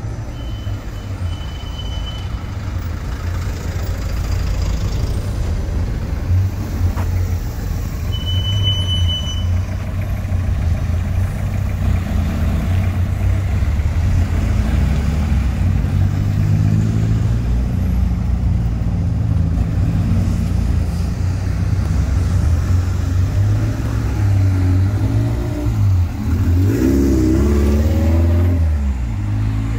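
A car engine running close by, growing louder and then wavering up and down in pitch near the end as it revs or pulls away. A short high tone sounds twice in the first few seconds.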